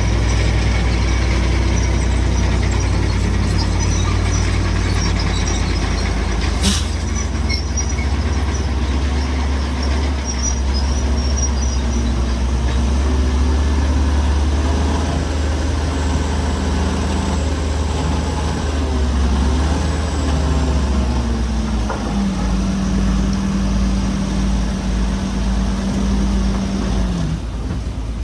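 Heavy diesel construction machinery running steadily with a deep engine drone, with a single sharp knock about seven seconds in. Near the end a steadier, higher engine note holds for about five seconds, then drops.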